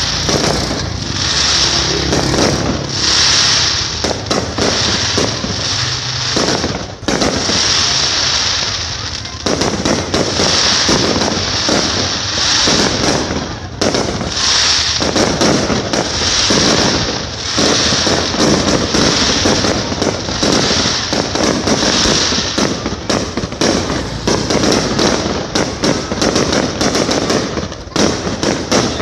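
Aerial fireworks going off: many shells and rockets bursting in quick succession, a dense, continuous crackle of bangs with no pauses.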